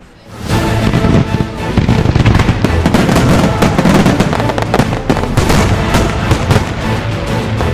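Fireworks going off in a dense run of bangs and crackles, mixed with music, fading in during the first half second.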